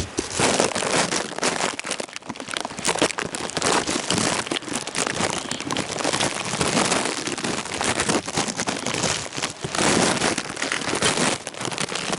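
Heavy storm rain falling, with many sharp drop impacts on nearby surfaces; the downpour swells and eases.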